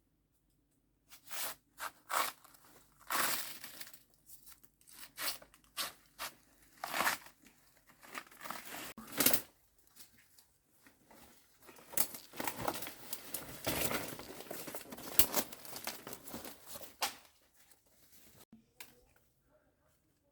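Irregular crinkling, rustling and tearing of a crackly sheet material being handled, in uneven bursts that grow busiest past the middle and die down near the end.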